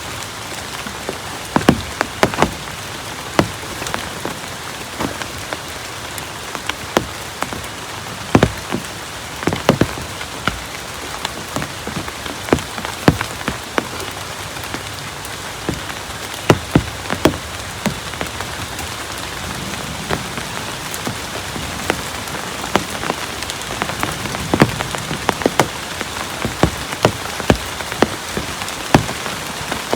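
Heavy rain falling steadily, with irregular sharp taps of large drops striking a nearby surface.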